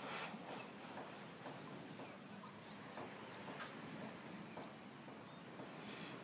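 Faint outdoor ambience: scattered short, high chirps from small birds over a steady hiss, with a brief rush of noise at the start and again near the end.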